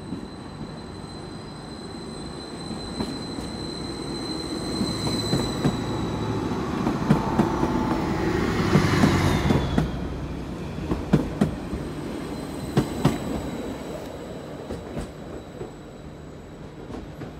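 Passenger train running along the platform track. It grows louder to a peak about halfway through, with a high whine that drops in pitch as it goes by, then a few sharp clacks from the wheels over rail joints as the sound fades.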